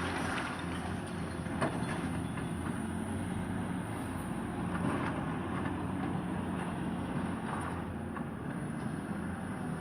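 Excavator's diesel engine running steadily during demolition work, with a few sharp knocks from the machine working the masonry.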